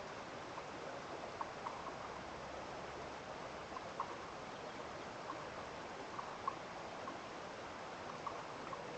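Steady hiss of running water, with short, irregular ticks about once or twice a second, like water dripping after rain.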